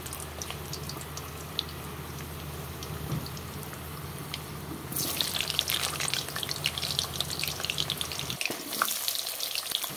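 Potato pieces frying in hot oil in a steel kadai: sizzling with fine crackling, much louder and denser from about halfway through. A steady low hum runs underneath and drops out near the end.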